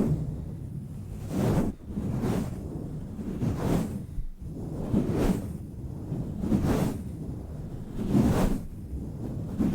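Microphone cover swirled and pressed against a microphone: deep, rough swishing strokes that swell and fade about every second and a half.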